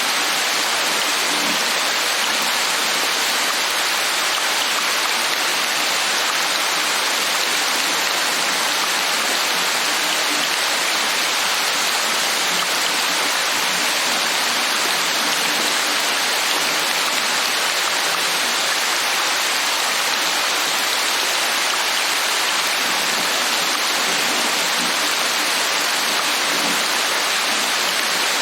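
Steady, heavy rain, an even hiss with no breaks or single drops standing out.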